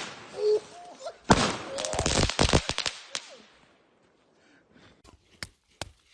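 Firework going off from a PVC pipe launcher: a sharp bang at the start, then about a second later a hissing burst full of sharp crackles that lasts about two seconds and fades out.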